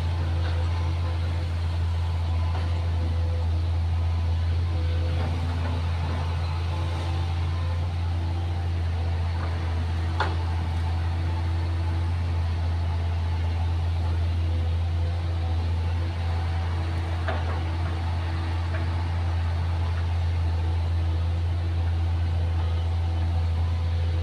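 Excavator's diesel engine running steadily at constant speed, a deep even drone with a few faint clicks.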